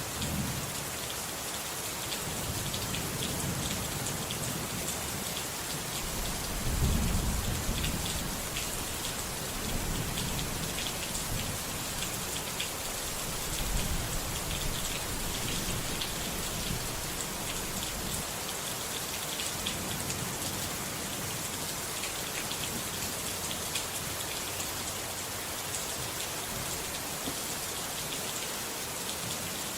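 Steady rain falling, with several low rumbles of thunder rising and fading under it, the strongest about seven seconds in.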